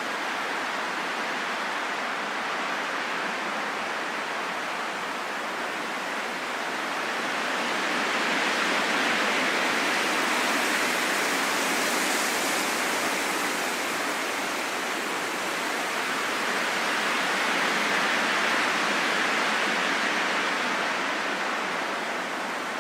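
Steady rain falling in a forest, an even hiss with no separate drops standing out. It swells louder from about eight seconds in and eases back near the end.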